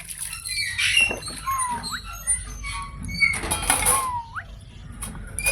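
Pet green parrot calling: two harsh squawks, about a second in and again just past three seconds, each followed by a whistle that holds and then sweeps sharply upward. Short chirps fall in between.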